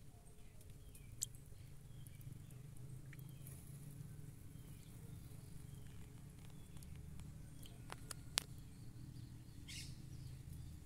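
Faint outdoor ambience: scattered short bird chirps over a steady low hum, with two sharp clicks, about a second in and again later.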